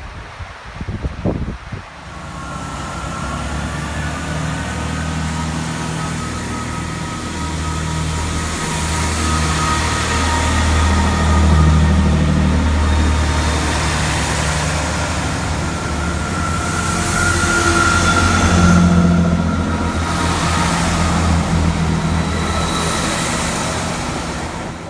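Chiltern Railways diesel train running through the station, its engine drone loud and steady with a thin high whine over it, growing louder about two seconds in and cutting off abruptly at the end.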